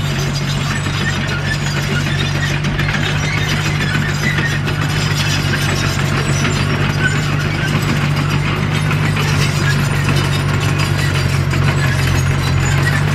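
Komatsu D21P bulldozer at work: its diesel engine runs steadily under load, with continuous clanking and squeaking from the steel tracks.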